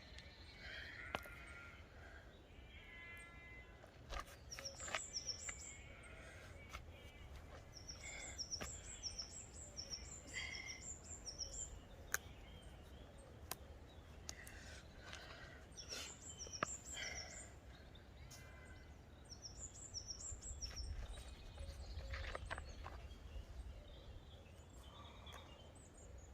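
Songbirds singing, with repeated high chirps and lower warbled phrases, over a low steady rumble that swells about twenty seconds in.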